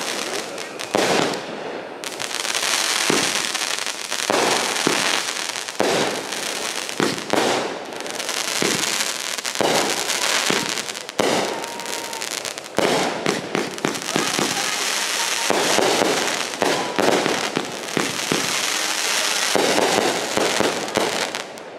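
Consumer aerial fireworks firing a long barrage: a dense crackle packed with many sharp bangs from launches and bursting shells, going on without a break and cutting off suddenly near the end.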